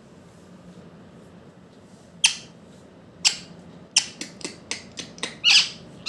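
Green parrot squawking: a string of short, sharp calls starting about two seconds in, coming quicker toward the end, with a longer one just before the end.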